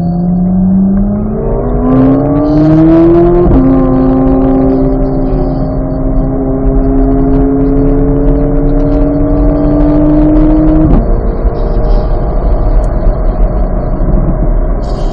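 2023 Chevrolet Corvette Z06's flat-plane-crank 5.5-litre V8 accelerating. The revs climb, drop sharply on an upshift about three and a half seconds in, and climb more slowly in the next gear. The pitch falls away near the end as the driver lifts off the throttle.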